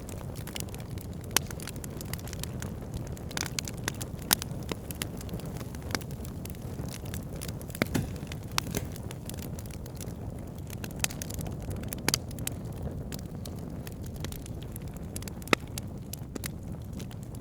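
Wood fire crackling in a fireplace: a steady low rumble of flames with irregular sharp pops, a handful of them louder than the rest.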